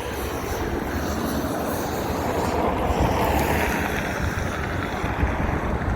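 Road traffic passing: a steady low rumble and tyre hiss that swells about halfway through and then eases, with wind buffeting the microphone.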